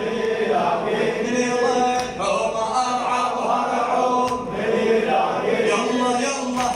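Men's voices chanting an Arabic religious chant in long held notes, with a sharp beat about every two seconds.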